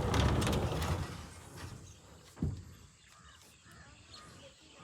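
A rush of scraping, rustling noise for about a second as the cottage is opened up, a single knock about two and a half seconds in, then crows cawing faintly in the background.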